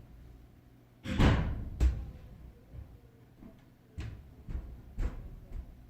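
A series of thumps and knocks: a heavy thump with a short rush about a second in, a second sharp knock soon after, then four lighter knocks near the end.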